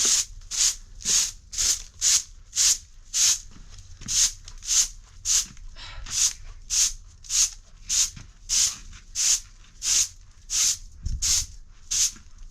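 Rhythmic swishing strokes, evenly paced at about two a second, like a broom or brush being worked over a surface.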